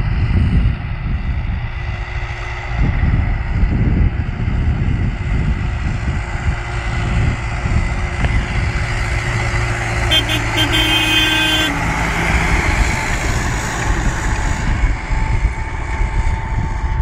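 Erkunt Kudret 100 tractor running steadily, loud and low. About ten seconds in, a short horn-like tone sounds for under two seconds.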